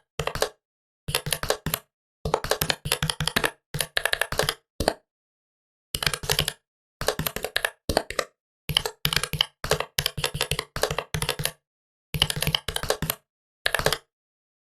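Typing on a Huawei Matebook 13 laptop keyboard: quick runs of key clicks in short bursts with brief pauses between them, stopping near the end.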